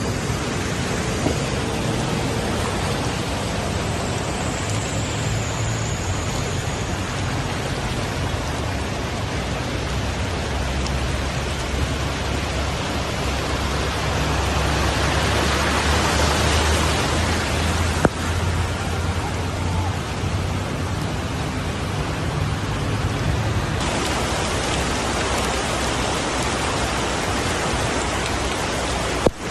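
Floodwater rushing along a road after torrential rain: a steady, loud rush of water with a low rumble underneath. The sound swells for a couple of seconds about halfway through and changes abruptly about 24 seconds in.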